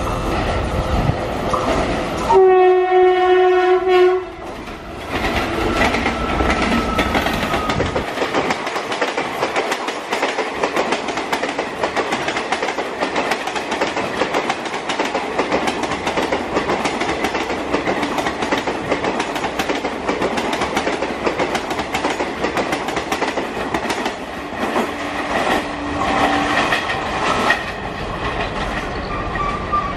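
A dual-current electric locomotive sounds one loud horn blast lasting about two seconds as it approaches. It then passes close, and its coaches rush by with wheels clattering rapidly over the rail joints. A fainter horn sounds near the end.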